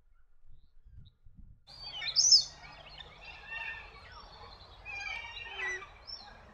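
Wild birds chirping and calling, several overlapping high calls, starting abruptly a little under two seconds in over a low rumble.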